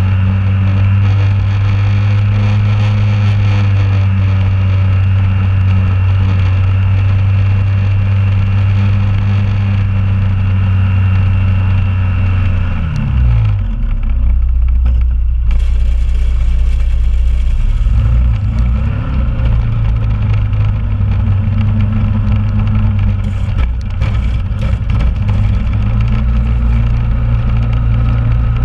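2001 Honda Rubicon ATV's single-cylinder engine running at a steady speed, dropping to a lower idle about halfway through for several seconds, then picking back up to the steady running pitch.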